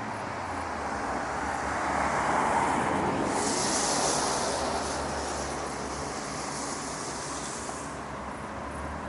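Road traffic in a city: a vehicle passes, its noise swelling to a peak about two to three seconds in, and a high hiss lasts for several seconds after it, over a low hum of traffic.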